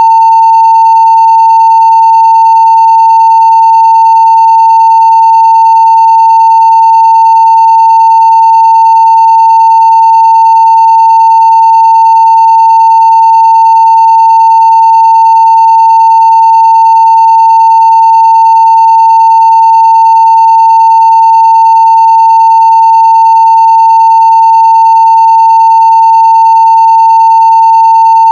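Continuous 900 Hz sine-wave test tone at full scale (0 dB), one steady, unbroken pitch that does not change.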